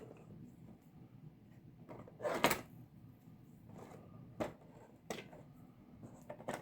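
A few short rustles and knocks from a model car kit box and its plastic parts being handled, the loudest a double one about two seconds in, with smaller ones later.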